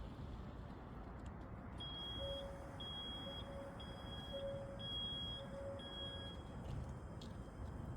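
An electronic beeper sounds five short high-pitched beeps, about one a second, over steady background noise.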